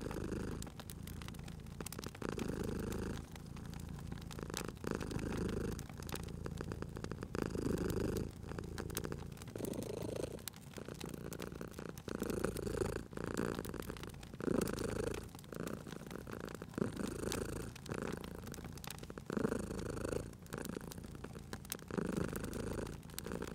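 Domestic cat purring, swelling and easing with each breath about every two and a half seconds, over the small sharp pops and clicks of a crackling wood fire.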